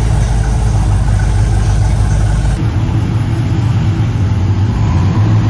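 LS-swapped 1971 Camaro's V8 running loud as the car rolls slowly, heard from the driver's seat with the engine bay open. About two and a half seconds in, the sound cuts to other cars' engines running in a parking garage.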